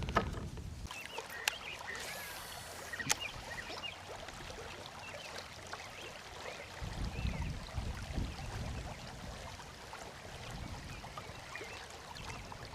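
Flowing river water around a kayak, with a few sharp clicks and knocks and faint high chirps over it.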